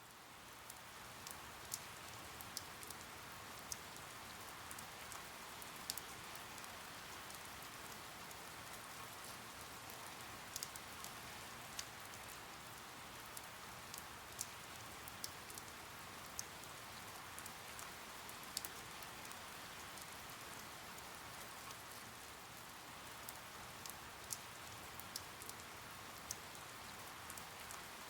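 Steady rain: an even hiss with scattered sharper ticks of single drops, fading up in the first second.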